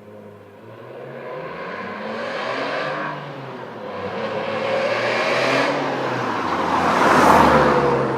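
Alfa Romeo 156's Busso V6 through a Unicorse-style sports exhaust, accelerating hard toward the listener. The revs rise, drop at an upshift about three seconds in, and rise again to a second shift. The car passes loudest near the end, its pitch falling as it goes by.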